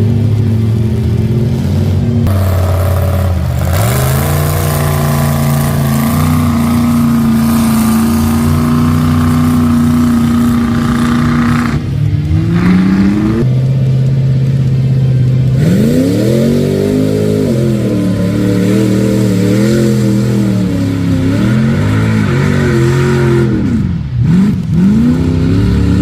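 Mud-bog truck engine revving hard. The revs climb early and hold high, climb again about twelve seconds in, then rise and fall repeatedly through the second half, with two sharp dips near the end.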